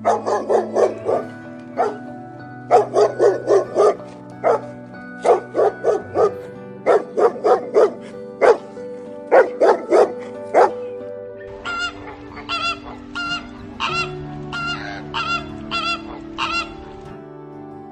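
A dog barking in quick runs of short barks. From about eleven seconds in, flamingos take over, honking in a steady run of goose-like calls. Background music plays underneath.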